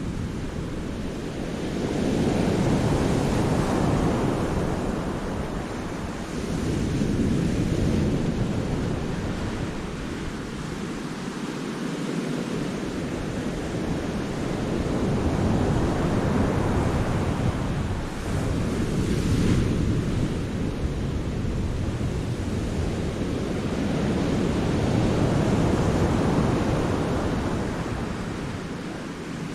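Sea waves breaking and washing in a rocky cove, a continuous surge that swells and ebbs in several slow waves.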